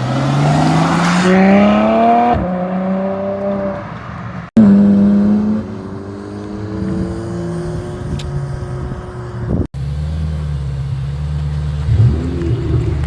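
Ferrari engines accelerating hard, their pitch rising, with a gear change about two seconds in; the sound cuts off abruptly and a second car pulls away with rising pitch again. After another abrupt cut, a lower steady engine rumble with a brief blip of revs near the end.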